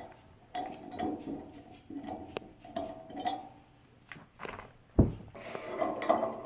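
Steel pin being worked into the holes of a steel motorcycle hitch carrier: a run of small metal clinks and taps, some with a short ring, and one louder metal knock about five seconds in.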